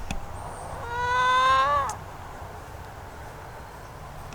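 One drawn-out animal call, about a second long, rising slightly in pitch and dropping off at the end.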